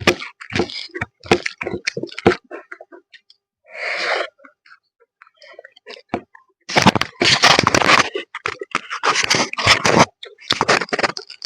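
Close-up eating of fish: chewing, crunching and tearing, with many short sharp clicks at first and a denser run of crunching and scraping about two-thirds of the way through.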